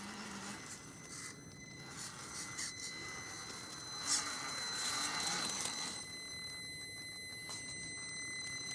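Electric drive of an RC scale crawler (Vaterra Chevrolet Blazer K5) giving a steady high whine, with uneven crackling noise over it as the truck moves, loudest about four to five seconds in.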